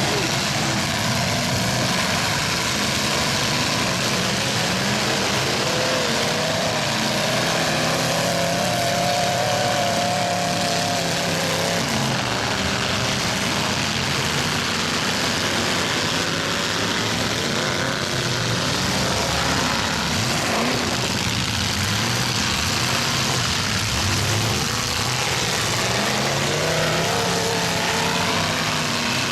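Several demolition-derby pickup trucks' engines running and revving at once, a loud continuous mix of engine noise with pitches rising and falling.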